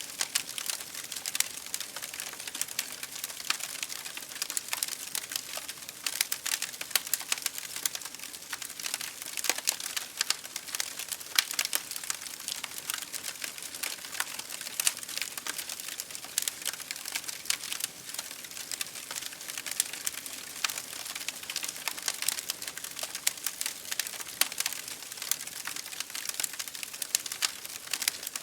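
Wood fire in a fireplace crackling with dense, irregular pops and snaps, over a steady patter of rain against a window pane.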